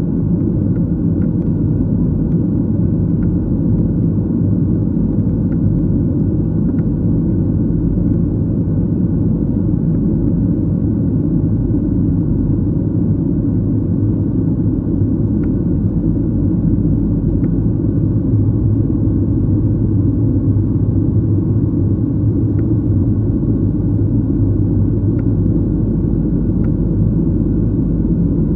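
Steady low rumble of an airliner's engines and airflow heard inside the passenger cabin, with a few faint ticks.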